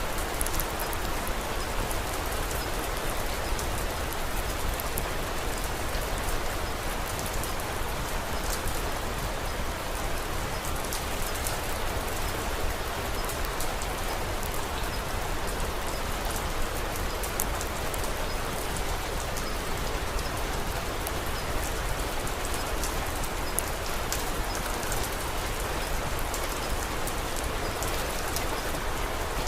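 Steady rain falling, with many small sharp ticks scattered throughout.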